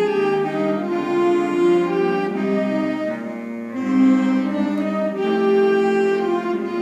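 School wind band, woodwinds to the fore, playing a slow passage of sustained notes that move together in changing chords.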